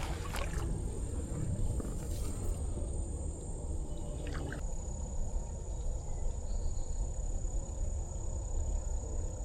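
Creek-side ambience: a steady low rush of moving water, with a thin, steady high insect whine over it and a few faint clicks.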